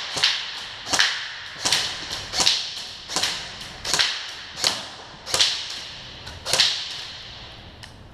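Airsoft gun fired in single shots, about eight sharp cracks at a steady pace of roughly one every 0.7 seconds, each echoing briefly, stopping about a second and a half before the end.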